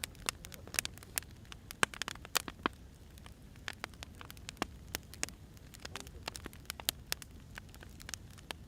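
Firewood burning and crackling: irregular sharp pops and snaps over a low, steady rumble of the flames.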